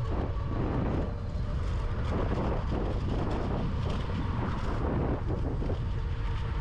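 Wind buffeting the microphone while riding an electric bike, a steady low rumble.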